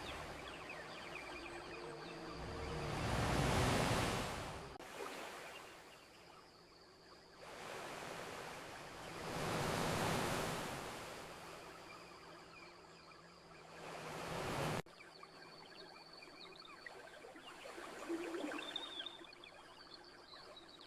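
Ocean waves washing onto a beach: the surf swells up twice, around 3 to 4 seconds in and again around 10 seconds, and drops off abruptly near 5 and 15 seconds. Faint high chirps show near the end.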